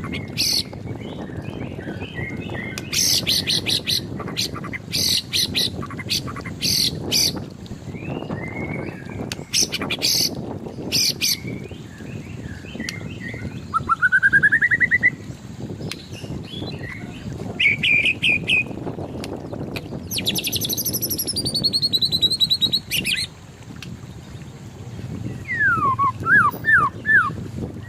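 White-rumped shama singing a varied song: repeated bursts of sharp, rapid high notes, a rising trill about halfway through, a long whistled phrase later on, and a few quick falling whistles near the end.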